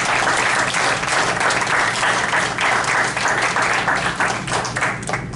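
Audience applauding steadily, stopping near the end.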